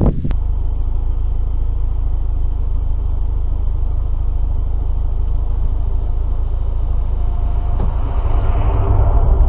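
Car driving on a road: steady low rumble of tyres and engine from inside the cabin, growing louder near the end.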